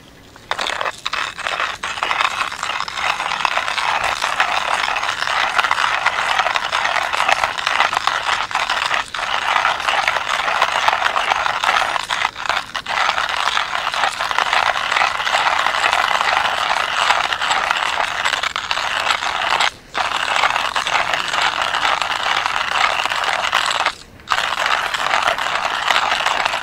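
Hand-cranked coffee mill, a Porlex, grinding coffee beans: a continuous gritty rattling crunch that stops briefly twice in the last third.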